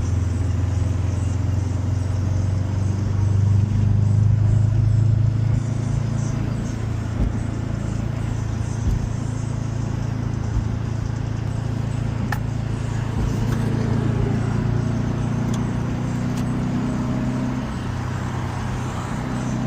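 Turbocharged Subaru WRX flat-four engine running under steady driving, a low, fairly even drone with small swells in loudness and a few sharp clicks past the middle.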